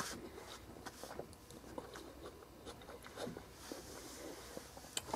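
Faint chewing of a mouthful of bacon cheeseburger, soft mouth sounds with scattered small crisp clicks.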